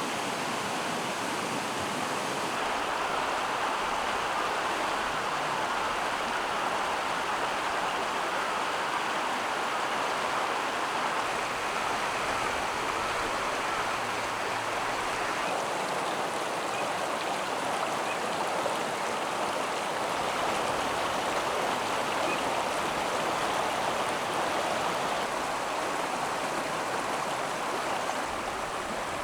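Steady rushing of flowing stream water, even and unbroken, with slight shifts in tone about a third of the way in and again about halfway through.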